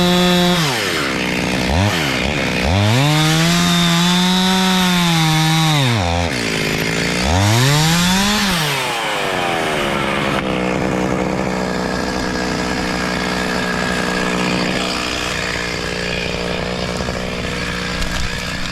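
A two-stroke chainsaw is revved up and let down three times, each burst lasting a few seconds. From about ten seconds in it runs steadily at a lower speed.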